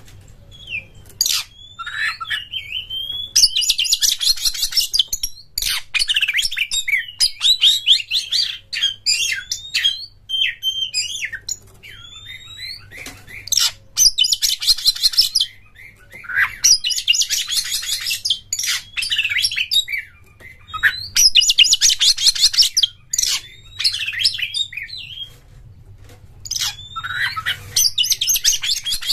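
Oriental magpie-robin (kacer) singing a long, varied song of clear whistles and chirps, broken about five times by dense, fast rattling bursts, the 'konslet' stutter prized in competition kacer.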